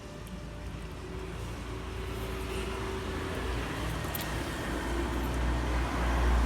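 Engine rumble of an approaching vehicle, growing steadily louder.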